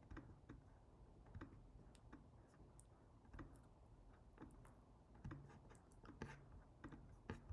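Faint, irregular clicking of a computer mouse, about a dozen clicks spread unevenly, over a low steady room hum.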